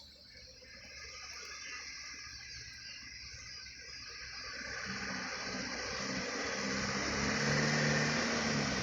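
A truck's engine approaching, a low steady hum with road noise that grows steadily louder.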